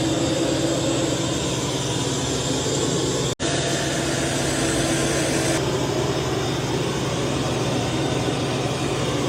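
Robot vacuum-mop running: a steady motor hum with suction hiss, cut off for a moment about three seconds in.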